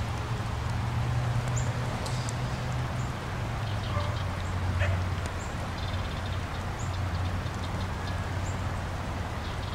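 Light rain falling at an apiary, with scattered drop ticks over an even hiss and a steady low hum that dips slightly in pitch about halfway through.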